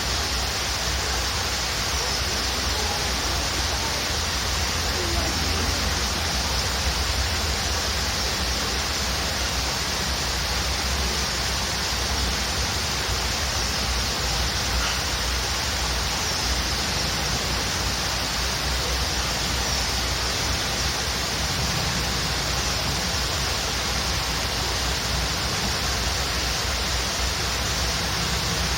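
Waterfall rushing steadily, with a few faint, high bird chirps over the water.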